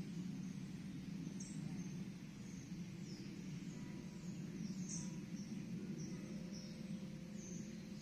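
Small birds calling with short, high chirps, about two a second, some of them falling in pitch, over a steady low background rumble.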